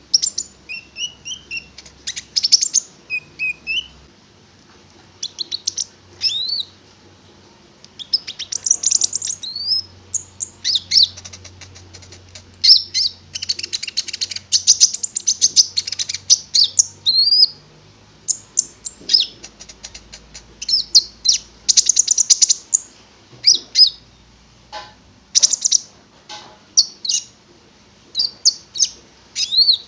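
A konin songbird singing hard: rapid chirps, trills and short whistled notes in bursts of a second or more, with short pauses between phrases.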